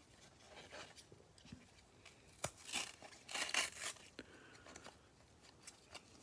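A trading-card hanger box and its pack wrapping being torn open by hand: a few short tearing and crinkling bursts, the loudest about two and a half seconds in and again around three and a half seconds, with small handling clicks between.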